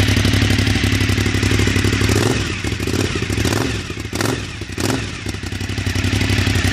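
Cagiva Raptor 1000's V-twin engine idling through Penta aftermarket exhausts with a steady low beat. Midway the level dips and two sharp cracks sound, under a second apart.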